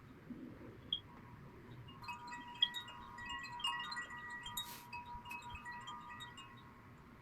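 Faint chimes ringing, several bell-like notes struck one after another from about two seconds in.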